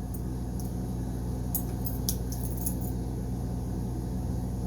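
Steady low room hum with a few faint, light metallic clicks near the middle from a Case trapper pocket knife being handled, its clip point blade being shown.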